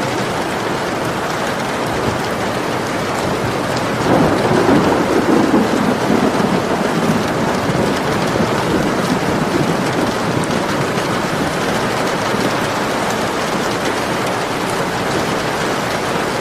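Steady heavy rain falling, with a roll of thunder swelling up about four seconds in and slowly fading away over the next few seconds.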